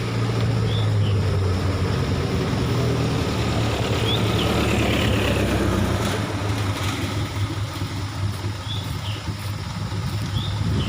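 Vehicle engine running on a steep road climb, a steady low drone that weakens about six seconds in, with a few faint short high chirps over it.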